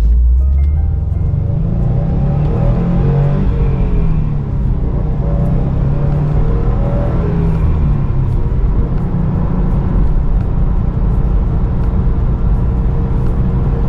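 A stock 2021 Subaru WRX STI's turbocharged flat-four engine pulling on the road, its pitch rising and falling a couple of times in the first half, then running steadily at a cruise.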